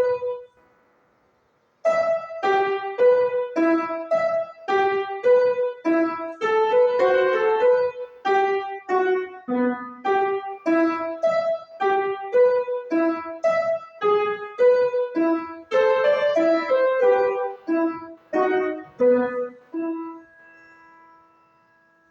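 Piano playing a simple melody in short, separate notes after a brief pause, closing on a held note that fades away near the end.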